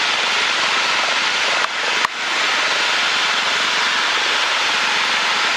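Steady hiss of in-flight cabin noise aboard a Cessna 172M. About two seconds in it briefly dips and there is a single sharp click.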